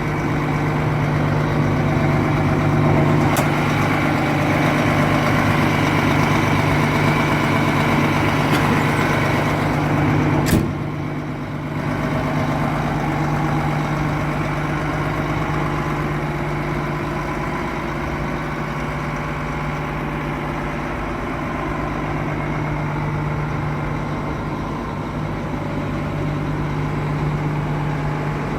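Doosan 360LCA excavator's diesel engine running steadily. A sharp click comes about three seconds in and a louder knock about ten seconds in, after which the engine runs a little quieter.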